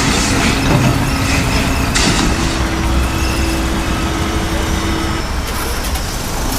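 Steady motor vehicle engine rumble, with a steady tone over it for about three seconds in the middle.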